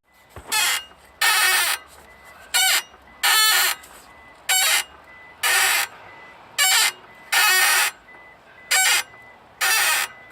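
Suzuki Wagon R's steering squeaking each time the wheel is turned, the abnormal noise the car was brought in for. The squeaks come in pairs, a short one then a longer one with a wavering pitch, about every two seconds, five pairs in all.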